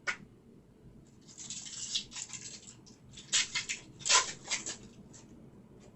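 Trading cards and their packaging being handled, with light rustling and sliding and a few sharp clicks and snaps.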